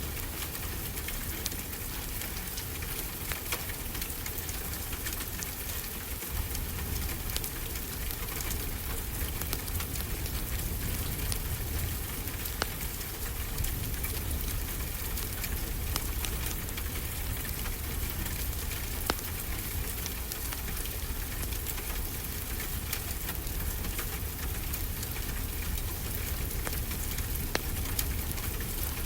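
Steady rain falling, mixed with a fireplace crackling, its small pops scattered irregularly through the rain.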